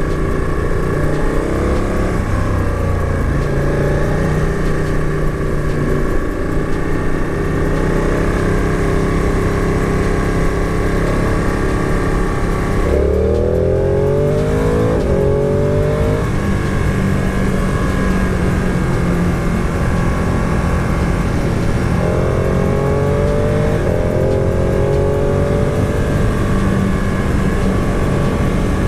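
V-twin sport motorcycle engine heard on board while riding, running steadily, with two rising pulls as the rider accelerates: one about halfway through and another a few seconds later.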